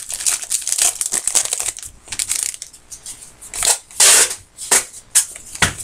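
Trading card pack wrappers being torn open and crinkled by hand: a run of rustling crackles, with a louder rip about four seconds in.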